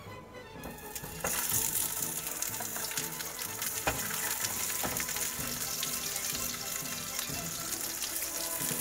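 Large dumplings sizzling in hot oil in a pan. The sizzle starts suddenly about a second in, as they go into the oil, and then carries on steadily with a few sharp crackles.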